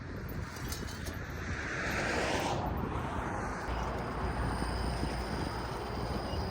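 A road vehicle passing: tyre and engine noise swells to a peak about two seconds in and fades, followed by a steady low rumble.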